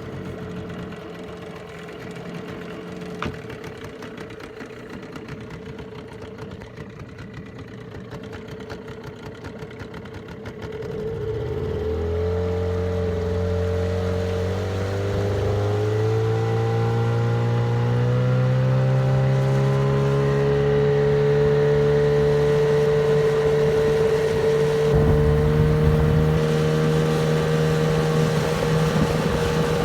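Sea-Pro 9.8 outboard motor running at low speed. About 11 seconds in it is throttled up, and its pitch climbs gradually for several seconds before holding steady at a higher, louder speed as the boat runs. The new motor is being run in, kept to no more than three-quarter throttle.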